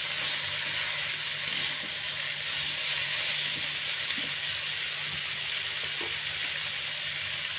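Chicken pieces and chicken feet in spice paste frying in a wok, a steady sizzle.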